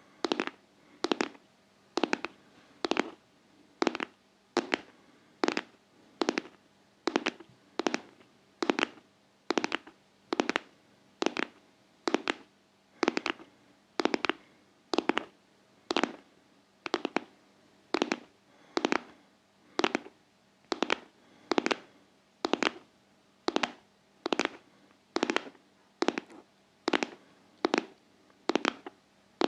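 ASMR tapping in a steady heartbeat-like rhythm, the taps coming in pairs again and again without a break.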